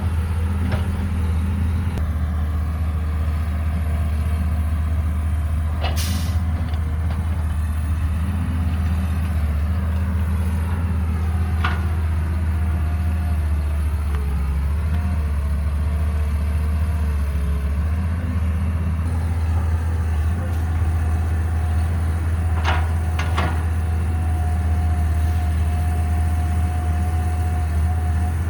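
Caterpillar 312B hydraulic excavator's diesel engine running steadily under load, with a few brief sharp knocks from the working machine.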